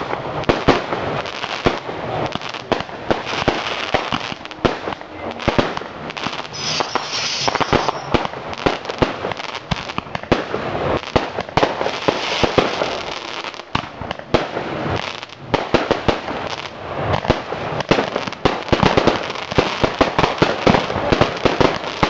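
Fireworks going off in a dense, continuous barrage of sharp bangs and crackles.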